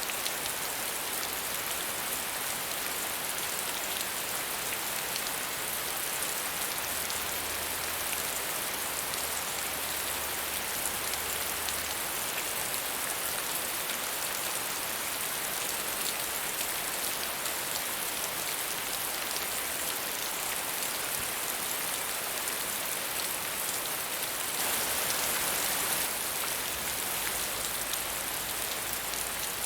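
Steady medium rainfall, an even hiss of drops pattering on a surface, briefly a little heavier near the end.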